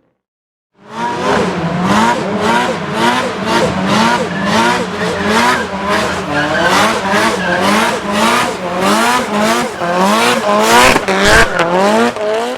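A high-powered car's tires squealing under wheelspin while the engine is held at high revs, the squeal wavering up and down in a regular cycle about twice a second. It starts suddenly about a second in.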